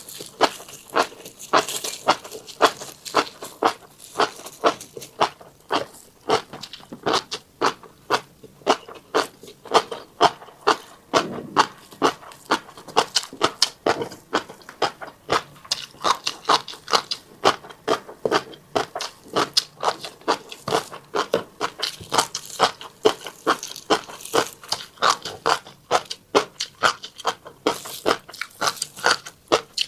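Close-up eating sounds of a person chewing a mouthful of tiny black seeds: a dense, irregular run of small crunches and clicks, several a second, that keeps going without a break.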